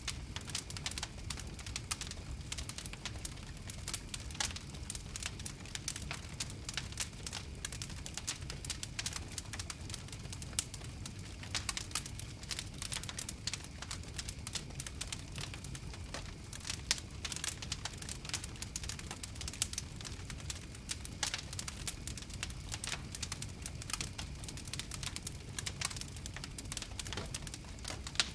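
Wood fire crackling: a steady run of irregular sharp pops and snaps over a low rumble of flames.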